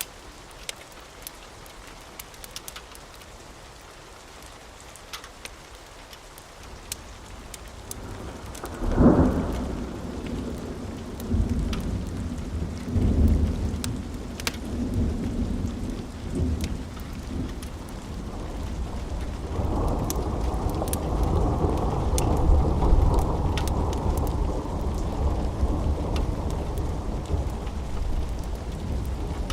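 Steady rain with scattered sharp crackles from a wood fire, and thunder: a loud clap about nine seconds in that rumbles on, more rumbles after it, and a long low rumble from about twenty seconds in.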